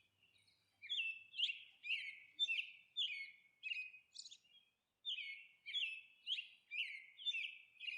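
A small bird chirping: a run of short, falling chirps about two a second, with a pause of about a second midway.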